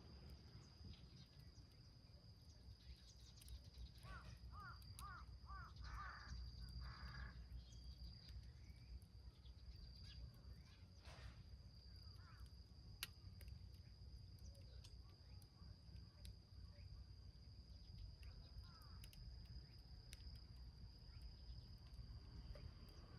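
Quiet outdoor fire scene: a small wood fire in a tin can giving faint, sparse crackles, under a steady high insect drone. About four seconds in a bird calls in a quick series of short notes, a few more calls following up to about seven seconds in.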